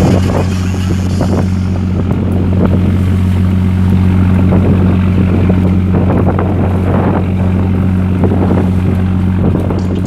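A fishing vessel's engine running steadily: a loud, even low hum that does not change in pitch.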